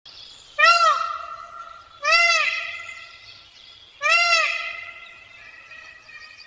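A bird giving three loud calls, one about every one and a half to two seconds. Each call rises and falls in pitch and leaves a fading, echoing tail.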